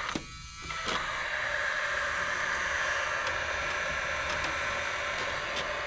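Power drill motor running steadily for about five seconds, starting about a second in, driving a fastener into a roof truss.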